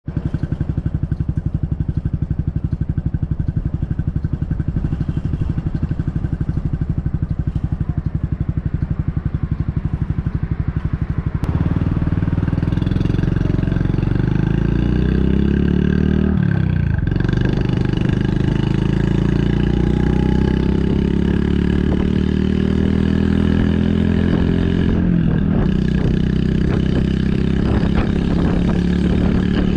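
Honda Super Cub 110's single-cylinder four-stroke engine through an aftermarket Kitaco mini Cabton muffler, idling with an even, rapid exhaust beat. About eleven seconds in it pulls away, the exhaust note rising with engine speed and dropping at two gear changes.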